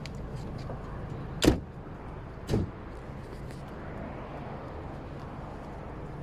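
Two car doors shutting with heavy thuds about a second apart, over a steady low hum.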